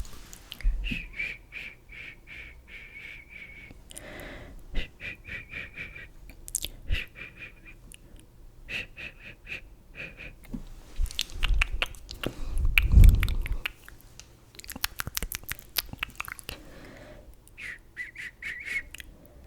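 Close-miked ASMR makeup handling sounds: runs of quick, evenly paced tapping or brushing strokes, several a second, broken by short pauses, with a burst of louder clicks and a low thump around the middle.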